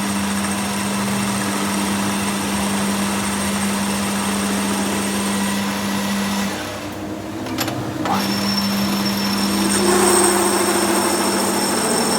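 Workshop machinery running with a steady hum, which cuts out about six and a half seconds in and starts again about a second and a half later.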